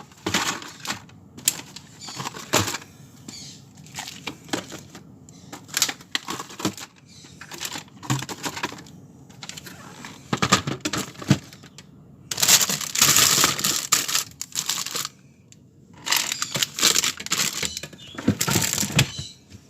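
Food packages and containers being handled and moved about in a fridge: irregular clicks, taps and knocks. Two longer stretches of plastic packaging crinkling come about halfway through and near the end.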